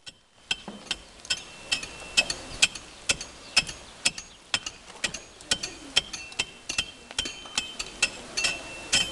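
Hand hammers striking repeatedly at an uneven pace, about two or three blows a second, many blows ringing with a metallic tone.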